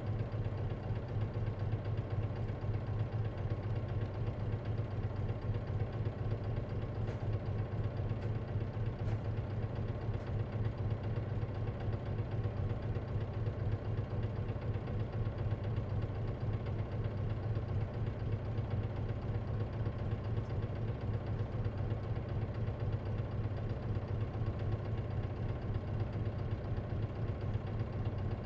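Diesel engine of an Isuzu KC-LV380N city bus, heard from inside the bus, running steadily at idle with an even low hum.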